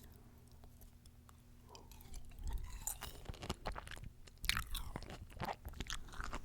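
Close-miked chewing of fresh fruit: wet, crunchy bites and mouth sounds. Fairly quiet for the first two seconds, then a run of close crackling crunches.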